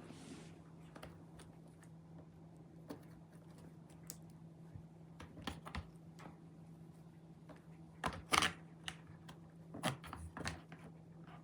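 A tabby cat batting at a toy with both front paws, making irregular light taps and clicks, with a louder cluster of knocks past the middle. A steady low hum runs underneath.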